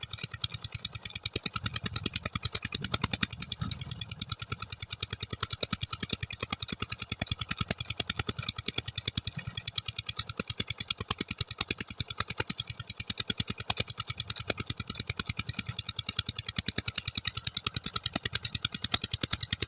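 Diesel engine running at full power, with a steady, rapid, even beat of sharp pulses.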